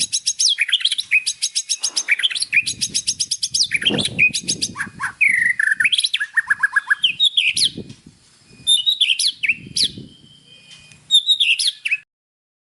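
White-rumped shama singing a rapid, varied song of fast trills, whistled slurs and chattering phrases, with a few short pauses; the song stops abruptly near the end.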